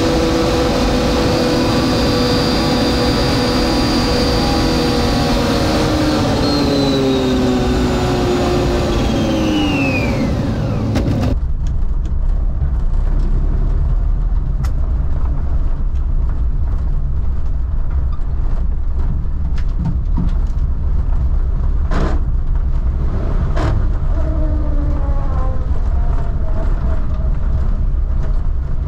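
1952 Willys Wagon on the move: its engine and drivetrain whine drops in pitch as the wagon slows, then stops abruptly. A low steady rumble follows, with two sharp clicks later on.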